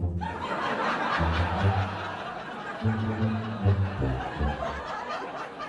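Laughter, like a crowd or a laugh track, over background music with a low bass line.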